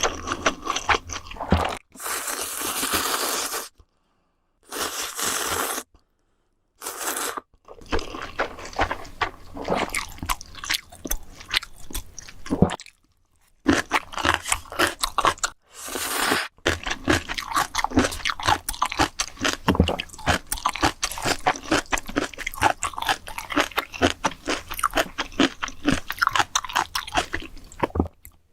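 Close-miked eating of ramen: a few long noodle slurps in the first several seconds, then steady crunchy chewing with rapid, dense clicks.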